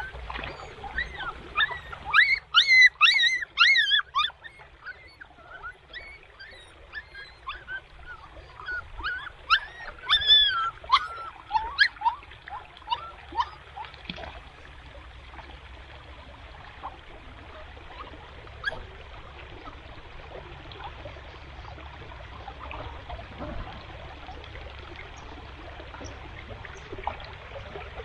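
Repeated short, high animal calls, clustered about two to four seconds in and again around ten seconds in, dying away about halfway through; after that a steady hiss of flowing water.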